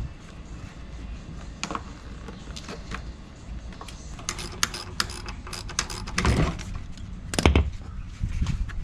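Metal parts and hand tools clinking, scraping and knocking during scooter engine removal, with irregular sharp clicks. There is a heavy thump about seven and a half seconds in.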